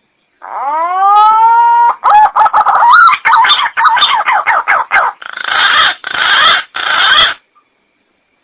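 A bird's loud call: a rising, held note, then a run of quick warbling notes, and finally three harsh, rasping phrases.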